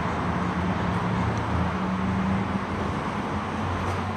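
Car engine idling with a steady low hum, over a background of noise.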